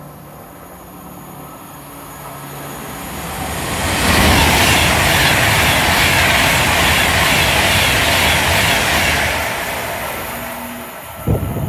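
Class 390 Pendolino electric train passing at speed along the platform: a rush of wheel and air noise that swells, stays loud for about five seconds, then fades away. A few short thumps come near the end.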